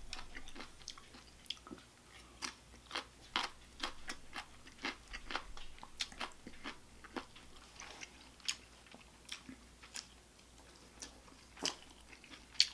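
Close-miked chewing and biting of food, with many short mouth clicks and smacks at irregular intervals.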